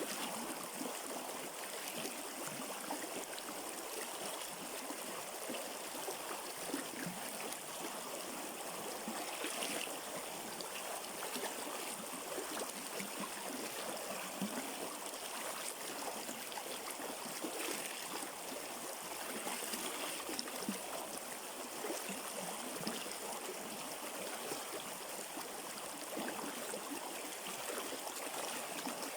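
River water flowing: a steady rush of running water.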